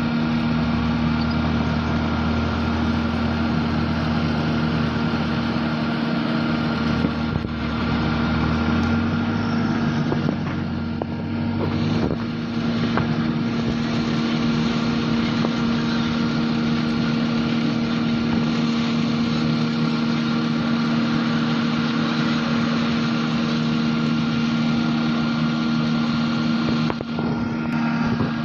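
Forage harvester and tractor engines running steadily under load during silage harvesting, with a constant droning hum. A deeper engine rumble underneath rises and fades out about nine seconds in.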